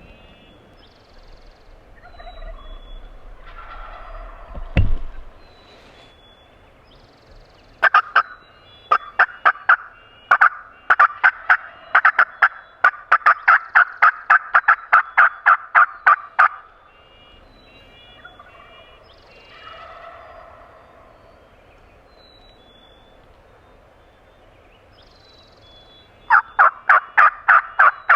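Wild turkeys calling: fainter gobbles early and mid-way, and a long run of loud, sharp notes at about three a second from about eight seconds in, starting again near the end. Small birds chirp faintly throughout.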